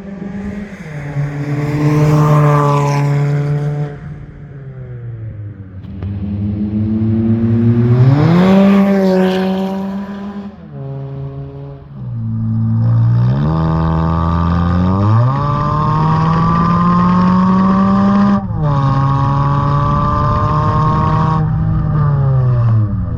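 Toyota Camry SE's 2.5-litre four-cylinder engine breathing through a muffler-delete, single-exit axle-back exhaust, with the engine speed rising and falling several times. It holds a steady high note for a couple of seconds, then climbs twice. After that it runs high for several seconds, with a short break about eighteen seconds in, and the pitch drops near the end.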